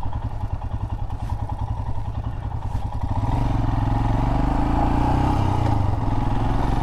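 Royal Enfield Himalayan motorcycle engine running under way; about three seconds in it gets louder and steadier as the bike picks up speed.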